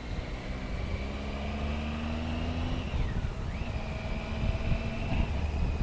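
Triumph Tiger 800 XRx's three-cylinder engine pulling under way, its pitch rising for the first few seconds, dipping briefly about three seconds in, then running steadily. A low wind and road rumble sits underneath.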